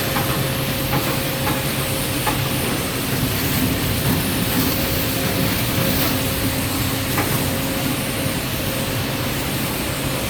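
Heavy industrial recycling machinery running steadily: a constant droning hum with a rattling clatter and a few knocks.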